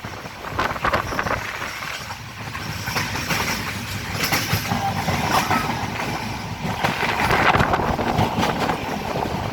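Passenger train running on the rails: a steady rumble of the wheels with irregular rattling clicks, growing louder a few seconds before the end.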